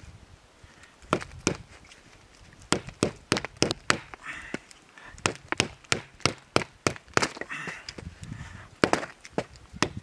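Wood cracking and snapping in a quick, uneven run of sharp cracks, about three a second, starting about a second in.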